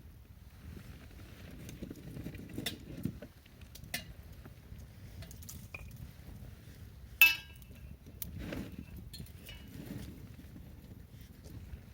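Pine-cone campfire crackling with scattered sharp pops and low rustling. About seven seconds in comes one loud clink that rings briefly, like metal striking the fire stand.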